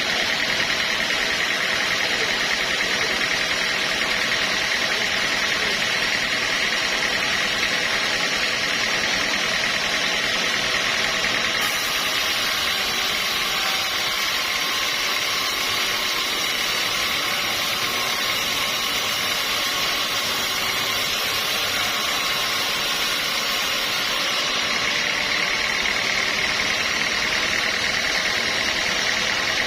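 Sawmill machinery running steadily. A high hiss joins it from about twelve seconds in and drops away about twelve seconds later.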